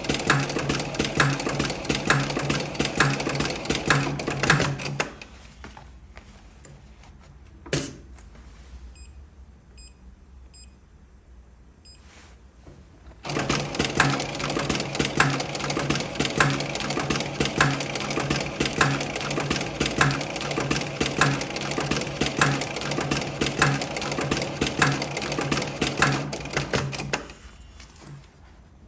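Electronic post-bed pattern sewing machine stitching a single-needle pattern, with a steady, even beat of needle strokes. It stops about five seconds in, a click sounds during the pause, and it runs again from about halfway to near the end, where it stops once more.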